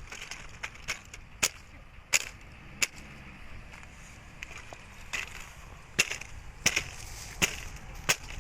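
A fire crackling as trap cages burn: sharp snaps and pops at irregular intervals, roughly one a second, over a faint hiss.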